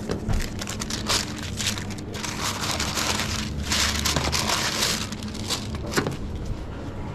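Coffee-making at an espresso bar: a hissing rush of noise from about two to five seconds in, over a steady low machine hum, with a few knocks and clatter.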